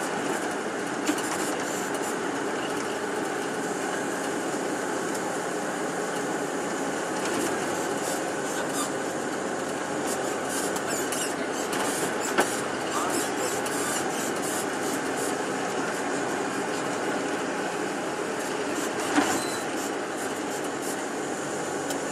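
Tour bus driving along, heard from inside the cabin: steady engine and road noise with light rattling and squeaking of the body and fittings, and a few sharp knocks.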